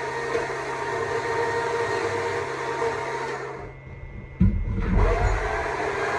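Stihl MSA 200 C battery chainsaw running and cutting wood, a steady electric motor whine. About three and a half seconds in the saw eases off briefly, then there is a loud low thump and it runs on.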